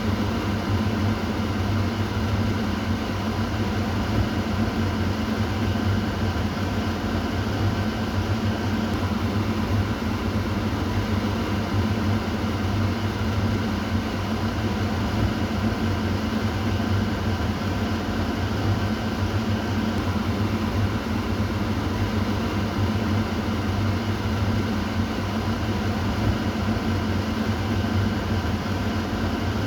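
Kitchen exhaust fan running steadily: an even motor hum with a low drone and a wide airy rush, unchanging.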